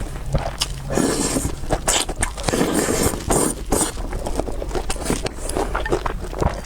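Close-miked eating of noodles: biting and chewing, with irregular wet clicks and several short bursts of noise.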